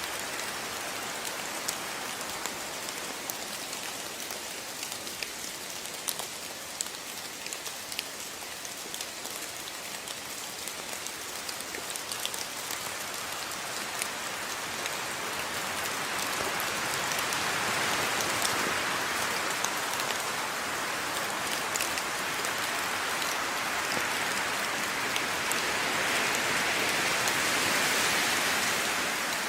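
Steady rain falling: an even hiss sprinkled with individual drops ticking, growing heavier about halfway through.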